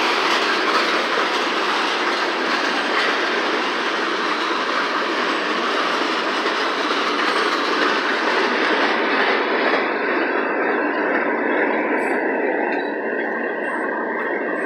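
Freight train cars, hoppers and tank cars, rolling past close by: a steady, loud rush of steel wheels running on the rails, the hiss in it easing a little over the last few seconds.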